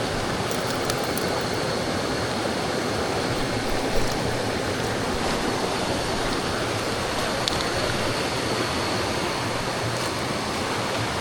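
Steady rush of flowing water from a mountain stream, with a few faint clicks and a light knock about four seconds in.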